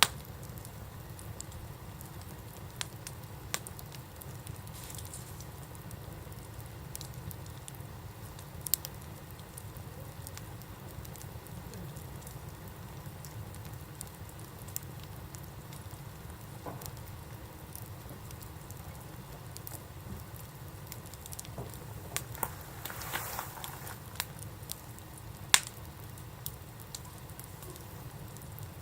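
Wood campfire burning, with scattered sharp crackles and pops over a steady low rumble; a small flurry of pops comes a little past the twenty-second mark, and the loudest pop comes a few seconds later.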